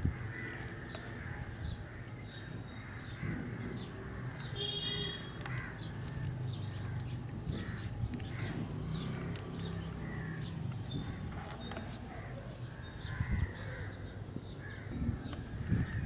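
Birds calling over a low steady hum, with one brief high-pitched call about five seconds in.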